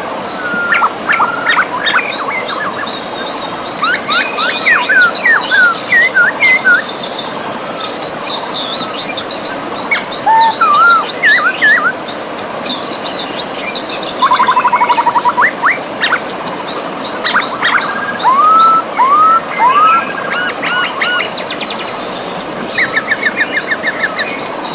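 Several birds singing at once, with quick chirps, rising whistled notes and a rapid trill about halfway through, over the steady rush of a river.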